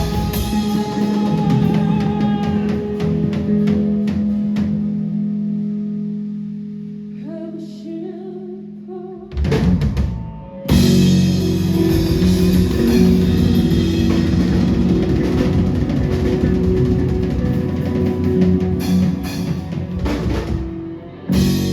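Live band music with electric guitar and drum kit: held guitar chords die away over the first half, a short break follows, and the full band comes back in loudly about eleven seconds in.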